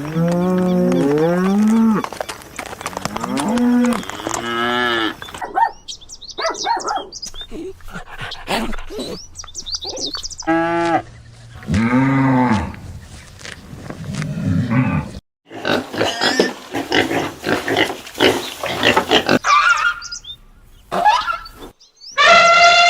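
A run of farm animal calls, one short recording after another with abrupt cuts between them, mostly pitched calls that rise and fall.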